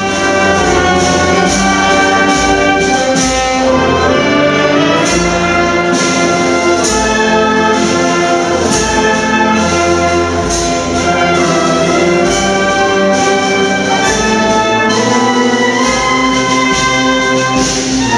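Brass band music: trumpets and trombones playing a slow melody in long held notes.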